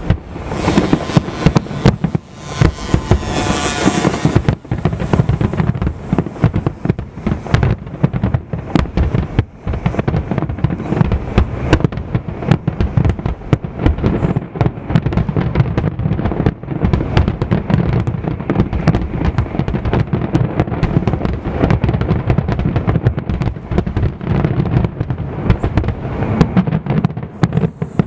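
Fireworks finale: a dense, continuous barrage of aerial shell bursts, booms and crackling, with a high hiss over the first few seconds.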